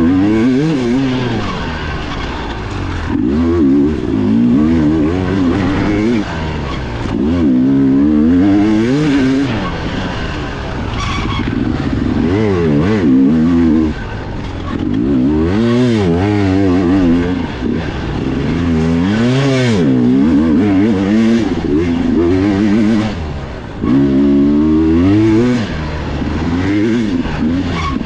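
Dirt bike engine heard close up from on board, revving hard and backing off over and over as the rider accelerates, shifts and rolls off for corners.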